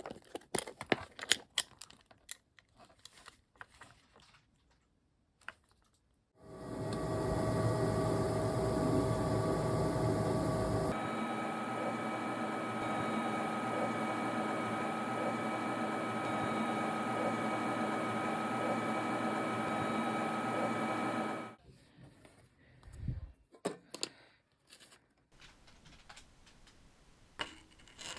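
Light clicks and taps from handling things on a work table, then a small electric motor runs steadily for about fifteen seconds, its tone shifting about a third of the way through, and stops; the light taps resume afterwards.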